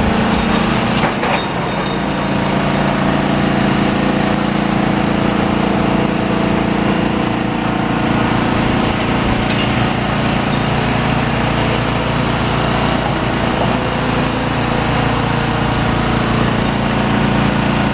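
Demolition excavator's diesel engine running steadily, with a constant low drone.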